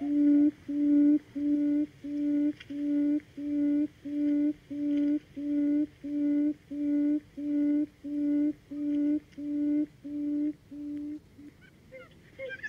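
Buttonquail (Vietnamese 'cút rừng') calling: a long series of low hooting notes, a little under two a second, steady at first, then weakening over the last few and stopping near the end.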